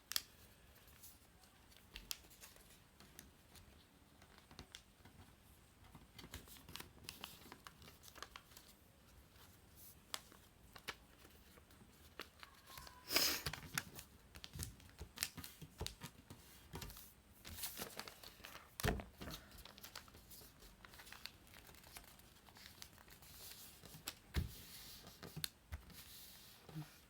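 A sheet of paper being folded and creased by hand into a paper airplane's wings: faint, scattered rustling and crinkling, with a few louder crinkles about 13 and 19 seconds in.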